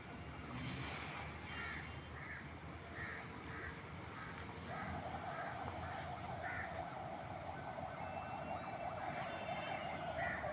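A bird calling in short harsh calls, about one or two a second. About halfway in, a steady droning sound starts and keeps going underneath.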